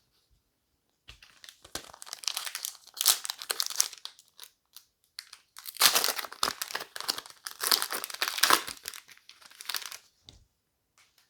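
Foil booster pack wrapper being torn open and crinkled by hand, in two spells of crackling: the first about a second in, the second, louder one from about six seconds.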